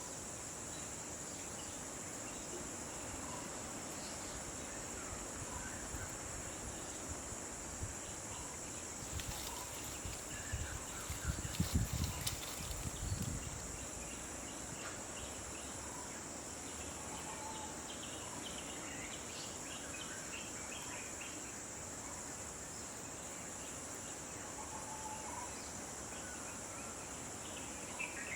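Steady high-pitched insect chorus, with a second insect pulsing evenly above it and scattered short bird calls. A brief burst of low rumbling with crackling knocks about ten to thirteen seconds in is the loudest thing.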